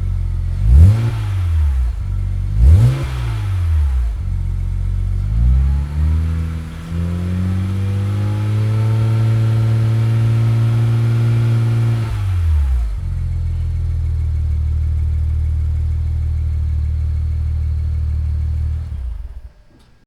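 BMW engine breathing through a newly fitted free-flow stainless steel muffler, revved to show off the exhaust note. It idles, is blipped twice in quick succession, then is held at higher revs for about six seconds and drops back to idle, and the sound cuts off near the end.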